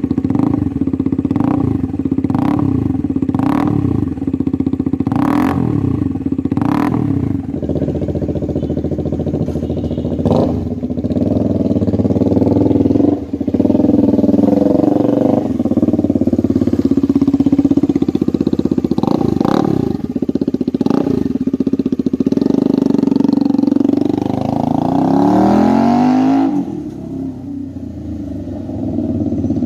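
Bajaj Dominar 250's single-cylinder engine running with its silencer removed, open exhaust: a steady idle broken by repeated sharp throttle blips, and one longer rev that rises and falls near the end.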